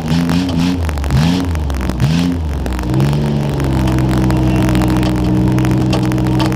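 Demolition derby car's engine revved in several quick blips, then settling at about three seconds into a steady held speed, heard through crackling static from a wet camera microphone.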